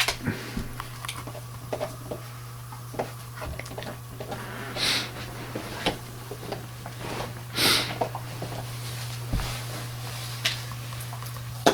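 A dog chewing and gnawing a large rawhide bone: scattered clicks and scrapes of teeth on the hide, with a couple of short snorts or sniffs about five and eight seconds in.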